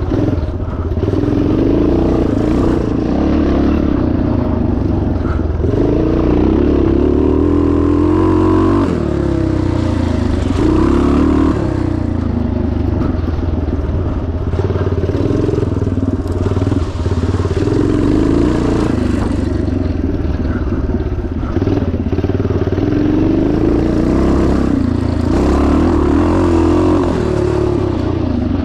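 Yamaha TT500's single-cylinder four-stroke engine being ridden hard off-road, the revs rising and falling again and again with throttle and gear changes.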